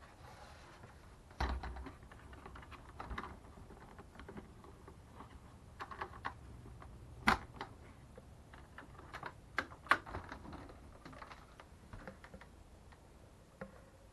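Irregular light clicks, taps and knocks of things being handled, with a few sharper, louder clicks among them.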